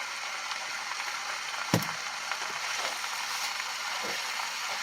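Vegetables frying in oil in a pan, a steady sizzle, with one sharp click a little under two seconds in.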